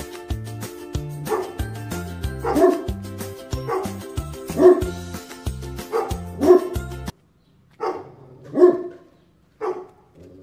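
A dog barking in short repeated barks, roughly one a second, over background music with a bass line. The music cuts off about seven seconds in and the barks continue alone.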